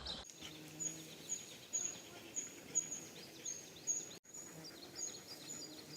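Forest ambience with small birds singing: a high, thin note repeated about twice a second, with short falling chirps beneath it and a faint low hum.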